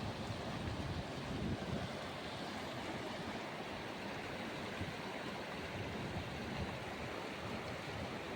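Rushing whitewater of the Beas River, a steady noise, with wind buffeting the microphone in uneven low gusts.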